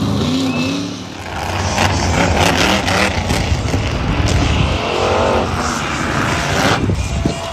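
Monster truck engines revving hard at full throttle, loud and dense. There is a brief drop about a second in, then a steady, loud engine roar.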